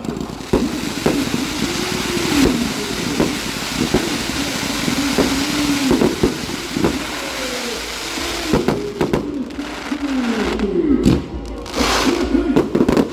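Fireworks display: a continuous crackle with sharp bangs every second or so, over music with sliding, wavering tones.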